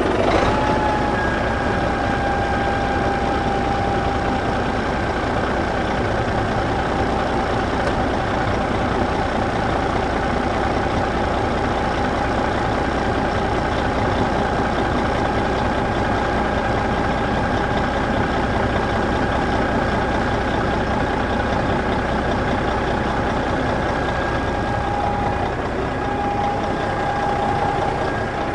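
Vehicle engine idling steadily, with a thin steady whine running through it.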